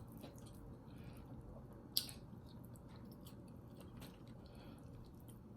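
Quiet chewing of food close to the microphone, with soft wet mouth clicks and one sharper click about two seconds in.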